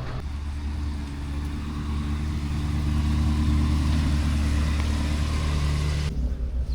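A car engine running at a steady pitch, growing louder over the first three seconds. The sound changes abruptly about six seconds in.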